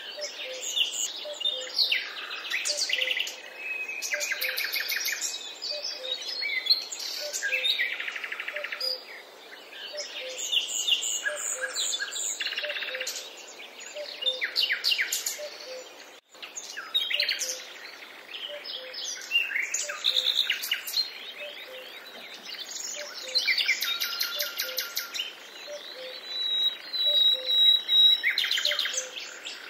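Several songbirds singing, with overlapping chirps, trills and whistles, and a faint low note repeating steadily underneath. The sound cuts out for an instant about halfway through.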